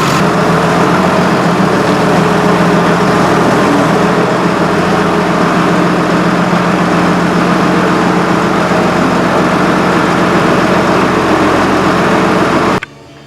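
Cylinder boring machine running steadily on an engine block: a loud, even motor drone that cuts off abruptly near the end.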